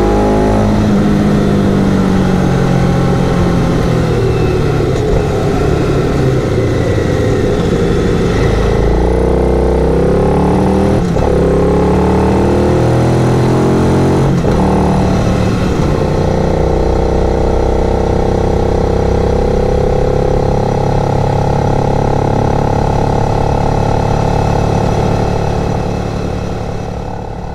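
Twin-cylinder adventure motorcycle engine under way, its pitch rising and falling with the throttle. It breaks off briefly twice, about eleven and fourteen seconds in, then holds steadier, and fades out near the end.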